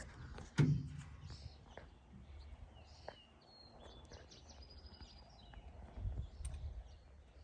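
Small birds chirping and calling outdoors, short high chirps and whistled notes scattered through the clip, with a single thump about half a second in.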